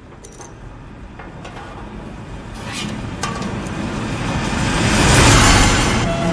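Film sound effects: a mechanical rumble that starts quiet and swells steadily over about five seconds to a loud peak, with scattered sharp clicks along the way.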